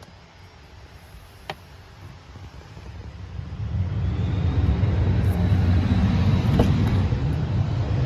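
Audi RS6's twin-turbo V8 starting from cold. After a click, the engine sound swells over about a second and settles into a loud, steady cold-start idle with a faint high whine above it.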